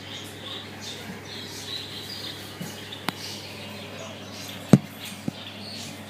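Small cage birds chirping with short, high calls. Three sharp clicks sound in the second half, the middle one the loudest.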